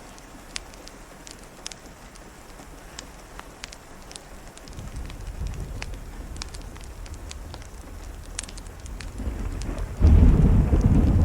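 Steady rain falling, with scattered sharp ticks. A low thunder rumble builds from about five seconds in and breaks into a loud thunderclap about ten seconds in.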